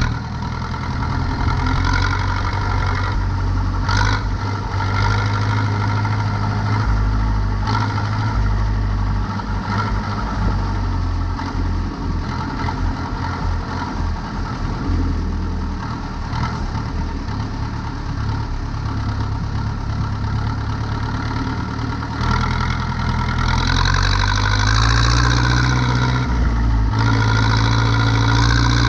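Zetor 7245 tractor's four-cylinder diesel engine running steadily. Its revs rise about two-thirds of the way through and stay higher, with a brief dip near the end.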